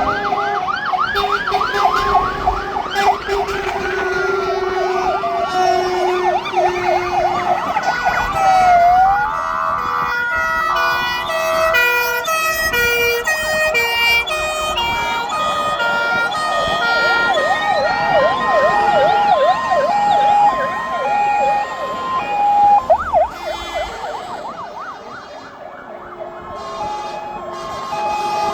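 Several fire engine sirens sounding at once: fast rising-and-falling sweeps overlap with stepped two-tone calls. They ease off briefly near the end and then come back up.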